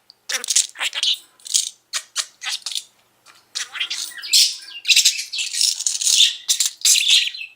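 Budgerigar chattering and warbling in quick, high-pitched, scratchy bursts, denser from about three and a half seconds in.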